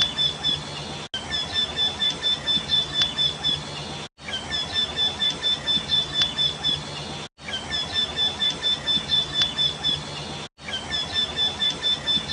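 A bird calling: a rapid run of identical high, clear notes, about four a second, repeated in phrases of about three seconds separated by brief breaks.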